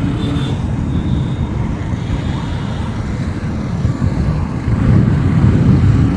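Riding a motorcycle at speed: a steady low rush of wind and road noise on the camera microphone, which grows louder about five seconds in.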